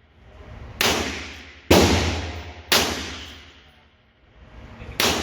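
Four handgun shots in an indoor range, each followed by a ringing echo that dies away. The first three come about a second apart; the fourth follows after a longer pause.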